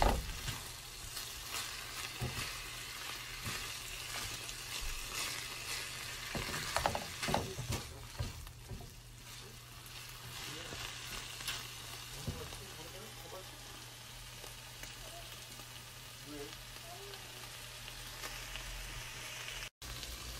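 Spicy chicken, rice cakes and vegetables sizzling in a frying pan as a spatula stirs and scrapes them around, the scraping busiest in the first half. Steady frying continues underneath throughout.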